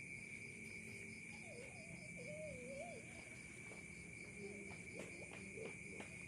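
Faint, steady high-pitched insect trilling with fast pulses. A faint wavering voice sounds in the middle, and a few light clicks or knocks come near the end.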